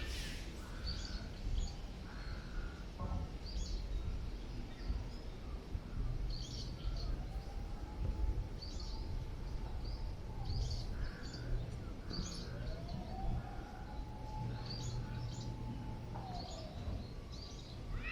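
Strong wind buffeting the microphone with a steady low rumble, while small birds give short chirps every second or two. Twice a faint tone rises and then holds steady before falling away.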